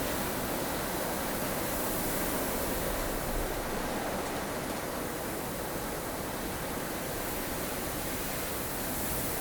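Strong wind blowing steadily in a blustery snow storm, a dense hiss that swells and eases gently in its higher part.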